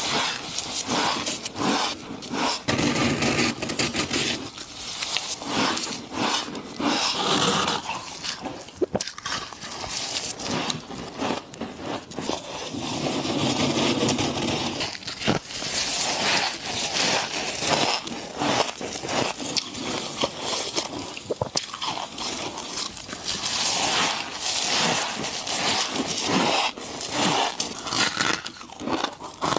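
A person biting and chewing ice, a dense, continuous run of sharp cracks and crunches.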